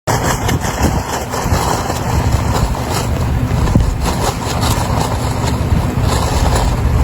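A vehicle engine running steadily under a loud, dense rushing noise with frequent short flutters. It cuts in suddenly at the start.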